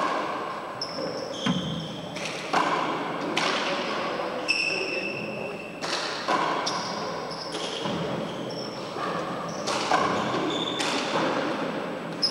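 Handball rally in an enclosed four-wall court: the rubber ball is slapped by hand and smacks off the walls and floor about once a second, each hit echoing, with short shoe squeaks on the court floor between hits.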